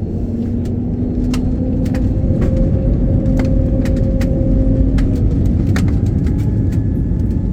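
Airliner cabin noise: the engines' deep rumble with a steady hum that rises slightly in pitch, and many sharp irregular clicks and rattles.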